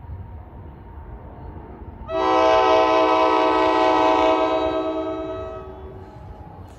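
Locomotive air horn sounding one long chord blast, starting suddenly about two seconds in and fading away after about three seconds, over a steady low rumble.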